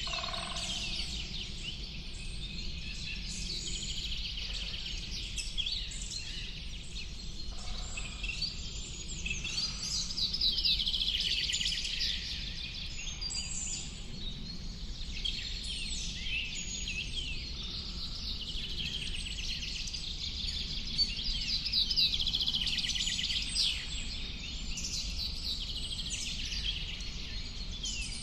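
A dense chorus of many birds chirping and singing at once, quick high calls overlapping without a break, over a low steady rumble.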